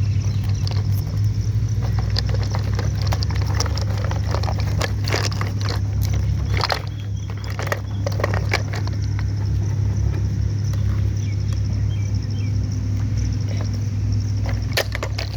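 A motor running steadily with a low hum, with scattered clicks and knocks over it.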